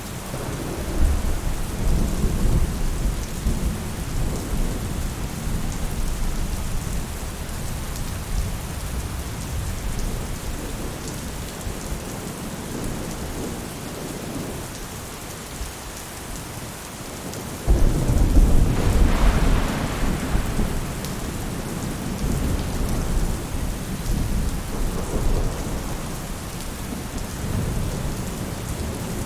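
Steady rain falling on a roof, with thunder rumbling low underneath. About two-thirds of the way in, a sudden loud roll of thunder breaks in and fades away over several seconds.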